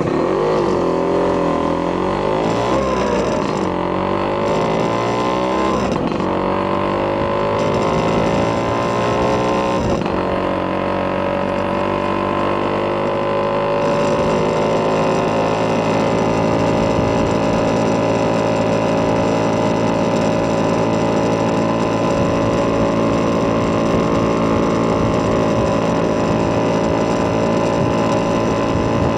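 Vespa PX200 scooter's single-cylinder two-stroke engine, fitted with a Polini 210cc kit and a Malossi expansion-chamber exhaust, running under way. The revs climb and drop several times over the first ten seconds or so, then hold steady at cruising speed.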